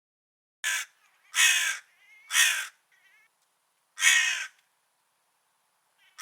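Crow cawing: a short caw just under a second in, then three longer caws about a second apart, with fainter calls between them, and another caw beginning right at the end.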